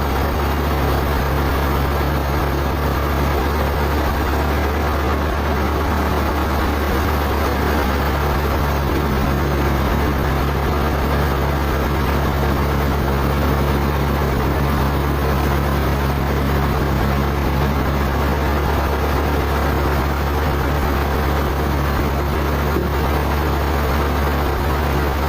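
Sawmill machinery running steadily: a constant low drone with a wide noise over it, unchanging throughout.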